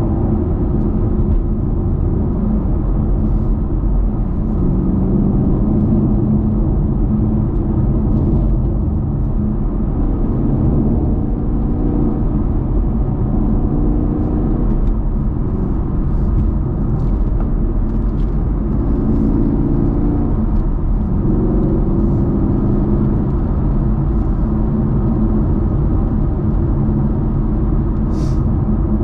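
A Chevrolet Camaro muscle car's engine running steadily at cruising speed, with a deep low note whose pitch rises and falls a little with the throttle. A brief sharp click comes near the end.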